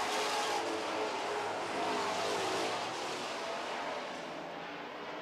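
A field of dirt-track super trucks racing, their engines running hard with the pitch rising and falling as they go through the turns. The engines grow a little quieter near the end.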